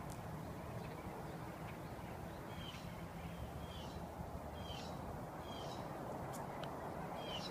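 A bird calling a short, hooked chirp over and over, about once a second from a couple of seconds in, over a steady outdoor hiss.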